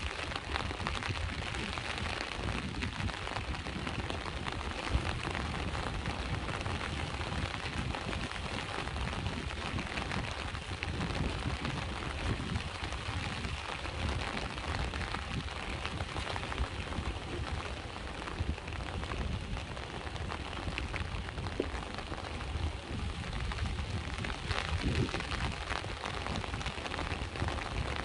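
Steady rain falling, with many fine drop ticks over a constant low rumble of sea waves.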